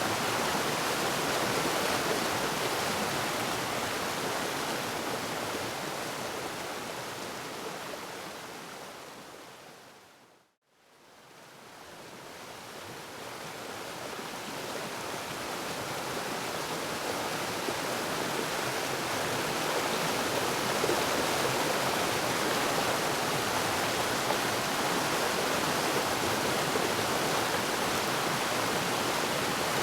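Waterfall rushing in a steady, even roar of water. About ten seconds in it fades down to silence, then fades gradually back up to full level.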